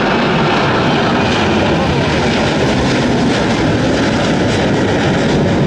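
Jet airliner's engines, loud and steady, as the aircraft passes close by.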